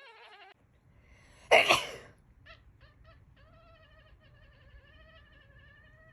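Domestic cat yelling: one very loud, harsh meow about a second and a half in, then a few short chirps and a long, quieter, wavering meow.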